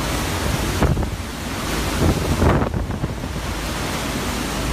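Hurricane wind blowing hard, buffeting the microphone, with two stronger gusts about one and two and a half seconds in.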